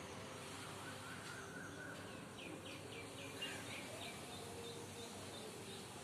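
Birds chirping over steady outdoor background noise, with a quick run of short high notes, about five a second, starting a little over two seconds in.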